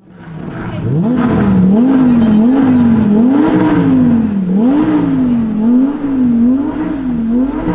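BMW Z4 M40i's turbocharged 3.0-litre inline-six exhaust revving up and down about six times in a row. Each rise is quick and each fall slower, and the sound fades in at the start.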